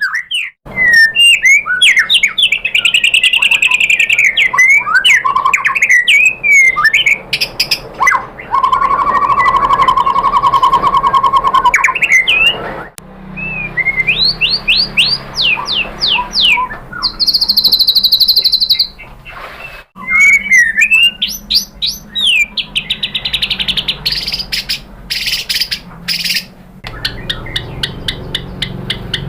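White-rumped shama (murai batu) singing a loud, varied song of whistles, trills and rapid repeated notes, with several abrupt breaks between phrases.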